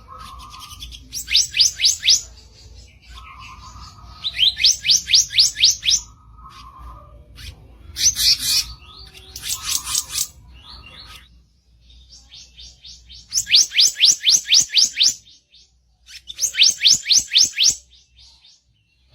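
Kicap ranting bird giving harsh chirping song: runs of quick, sharply rising high notes, about eight a second, each run lasting a second or so. The runs repeat six times, with short lower notes in the gaps between them.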